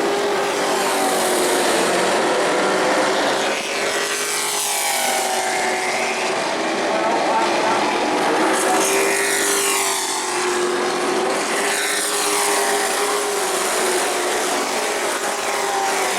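Pro truck race engines at racing speed on a short paved oval, several trucks passing with the engine pitch rising and falling as they go by.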